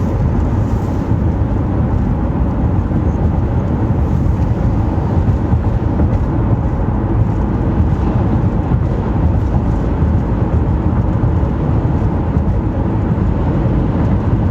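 Steady low rumble of a car on the road: tyre and engine noise.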